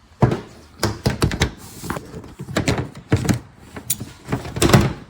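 Irregular clicks and knocks of a wiper blade and its plastic parts being handled and pulled apart, about a dozen sharp strokes with a few heavier thuds.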